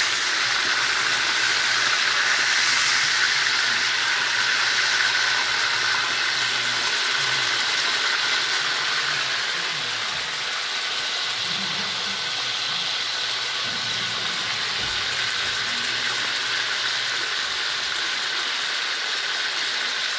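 Marinated pork chops sizzling steadily in hot oil in a skillet, the oil bubbling around the meat.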